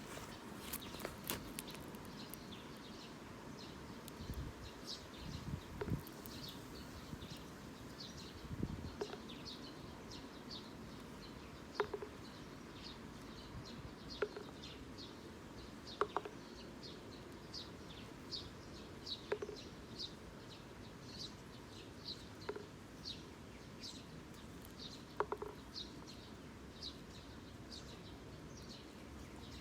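Eurasian tree sparrows chirping, short repeated chirps throughout, with a few sharp ticks and some low thumps in the first third.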